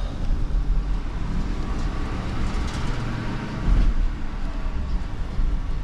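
Motor vehicle running: a steady low engine and road rumble with a faint hiss above it, swelling slightly about two-thirds of the way through.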